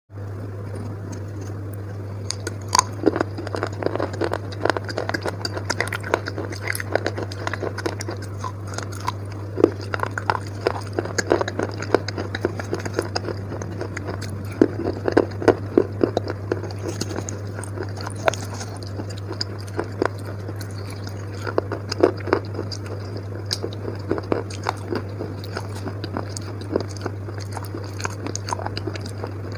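Close-miked chewing and biting of wet chalk paste: many crisp, irregular crunches and clicks, coming in clusters, over a steady low hum.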